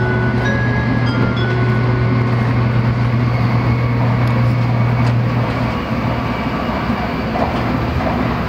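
Shinkansen passenger cabin at speed: a steady rushing and rumbling from the running train, with a strong low hum that falls away about six seconds in.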